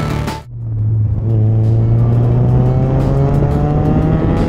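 Big-turbo 2002 Audi A4 accelerating hard, its engine note rising steadily in pitch through one long pull.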